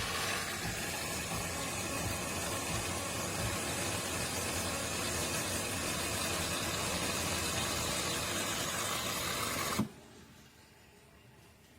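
De'Longhi Rivelia automatic espresso machine's milk frother hissing steadily as it steams and froths milk, then cutting off abruptly near the end.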